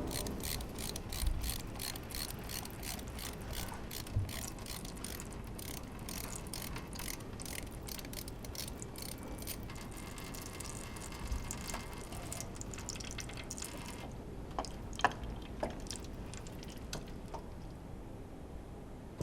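Ratchet wrench clicking in quick, repeated strokes, about three to four clicks a second, as fasteners are worked loose during an engine teardown. After about fourteen seconds only a few scattered clicks and light metal knocks remain.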